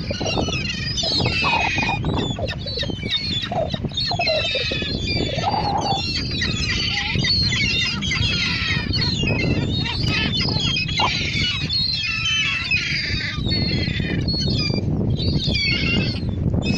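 A flock of seagulls squawking, with many overlapping cries and no break, over a steady low rumble.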